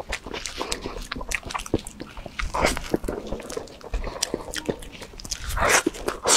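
Close-miked ASMR eating sounds: wet mouth clicks and smacks from chewing soft food, with louder squelching bursts as it is bitten and squeezed, about two and a half seconds in and again near the end.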